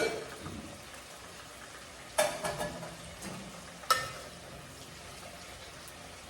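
Food frying in a pan with a steady low sizzle, broken by two sharp clatters of a utensil against the pan, about two seconds in and again about four seconds in.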